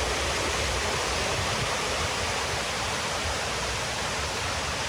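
Water pouring steadily down the walls of a 9/11 Memorial reflecting pool, a continuous even rush of falling water.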